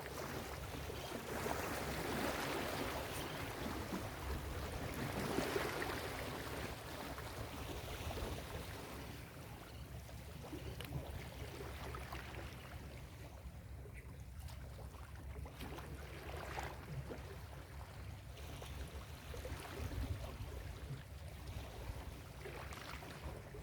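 Ocean surf washing onto a beach, rising and falling: two louder waves break in the first six seconds, followed by a calmer stretch of low wash.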